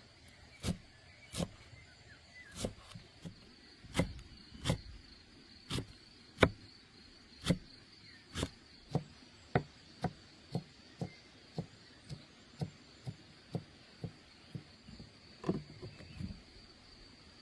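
Knife chopping on a wooden board, a sharp knock about twice a second, over a steady high chirr of crickets.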